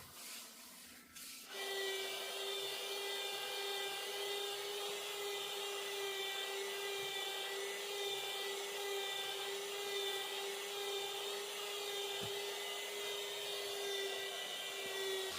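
A small motor starts about a second and a half in and runs with a steady, high-pitched whine.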